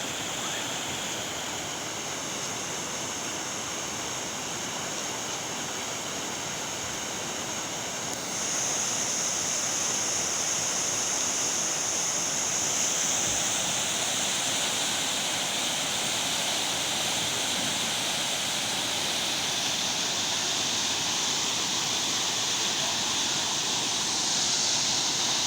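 Heavy rain pouring down in a steady hiss, growing louder about eight seconds in.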